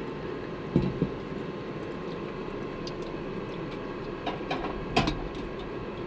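A few short knocks and clunks of gear being handled, the loudest about five seconds in, over a steady background hum.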